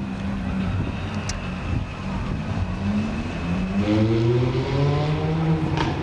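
Ferrari sports car engine accelerating: a steady engine tone that climbs in pitch from about two and a half seconds in, dips briefly near four seconds as it shifts up, then climbs again.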